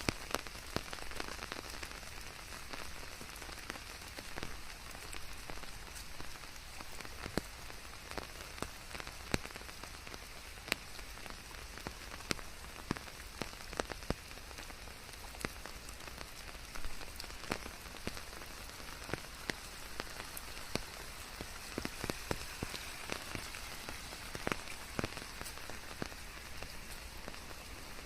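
Steady rain falling, with individual close drops ticking sharply and irregularly over the even hiss of the downpour.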